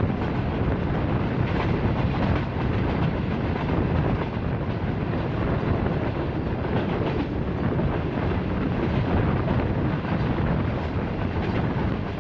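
Train running along the track: a steady rumble of wheels on rails.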